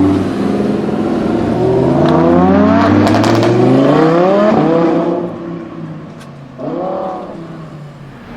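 Audi R8 V10 Plus's V10 engine, fitted with a Capristo exhaust, accelerating hard. Its pitch climbs for several seconds with a few sharp pops about three seconds in, then it fades as the car pulls away. A short rev rises and falls near the end.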